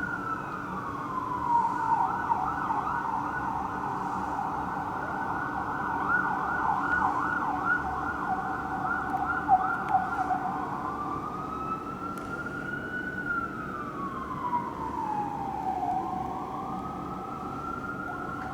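Fire apparatus electronic siren sounding Code 3. It starts on a slow wail, switches about two seconds in to a rapid yelp, and returns to the slow rising and falling wail about ten seconds in.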